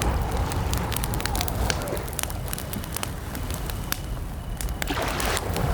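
Wood campfire crackling, with many sharp pops and snaps over a steady low rumble of burning.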